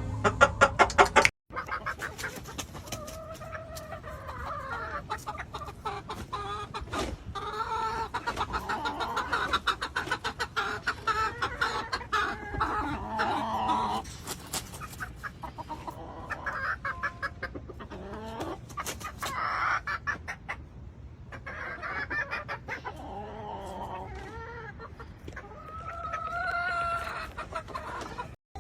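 Chickens clucking, with a rooster crowing now and then: several birds calling over one another, along with scattered short clicks.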